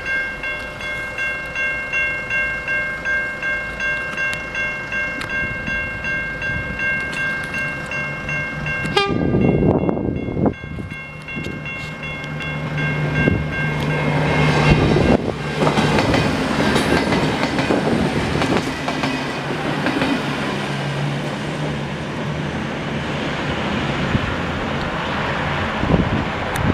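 Railway level-crossing bells ringing in a steady pulsing rhythm, stopping about a third of the way in. Then a V/Line VLocity diesel multiple unit passes, its engines running with a steady low hum over the rumble of the train and its wheels knocking over the rail joints.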